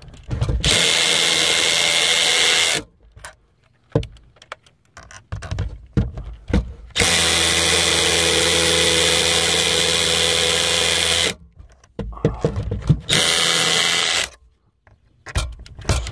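Power drill running steadily in three long runs, a short one, then a longer one of about four seconds, then another short one, with clicks and knocks of handling between the runs.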